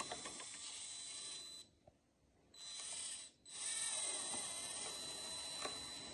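Small electric motor and gearbox of a 1/12 scale RC crawler truck, a steady high whine and hiss with a few light gear ticks, cutting out twice briefly as the throttle is let off.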